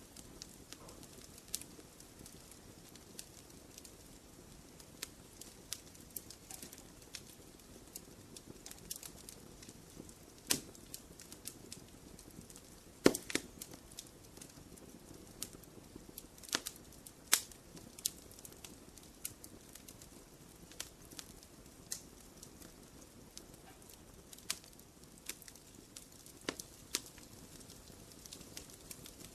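Fireplace fire crackling: a soft steady rush of flame under irregular sharp pops and snaps, the loudest about 13 seconds in and again about 17 seconds in.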